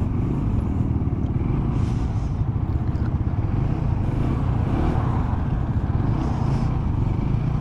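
Motorcycle engines running steadily on the move: a continuous low drone, with pitch shifting slightly now and then.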